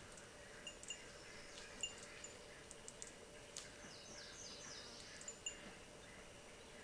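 Faint outdoor quiet with a few short, high bird chirps scattered through it and a brief bird trill about four seconds in.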